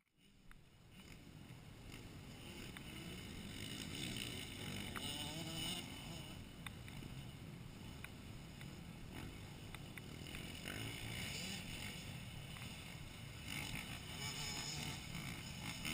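Motocross bike engines running faintly, their pitch rising and falling with the throttle, over a steady haze of noise.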